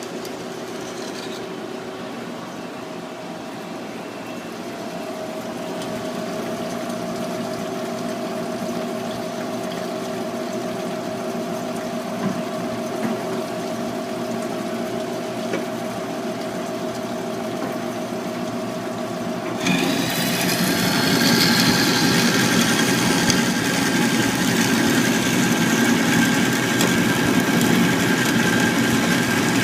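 Amada HFA250W horizontal bandsaw running steadily, its carbide-tipped blade cutting a stack of explosion-welded copper, stainless steel, titanium and aluminium. About two-thirds of the way through, the sound turns suddenly louder and harsher, with a high whine over it.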